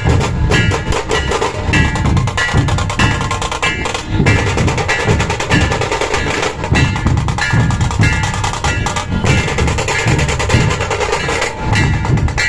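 Dhol-tasha drumming: deep, repeated strokes of large barrel dhols under dense, rapid rolls of tasha drums played with sticks.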